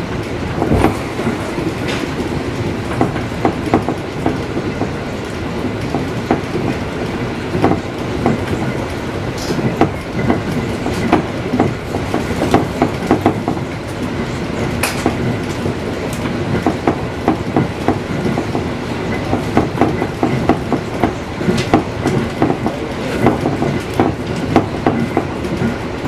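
Train running along the line, heard from the front cab: a steady rumble with wheels clicking over rail joints at irregular intervals.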